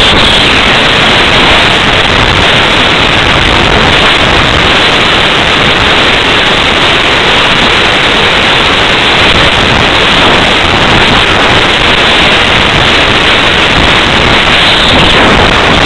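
Loud, steady wind noise rushing over the microphone of a small camera riding on a flying slope-soaring glider.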